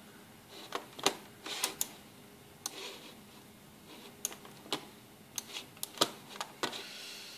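Computer mouse clicking, about a dozen sharp, irregularly spaced clicks, some in quick pairs, as photos are navigated on screen.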